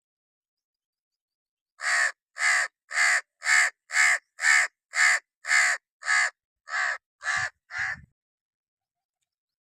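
A crow cawing in a rapid series of about a dozen caws, close to two a second, starting about two seconds in, the last few a little weaker.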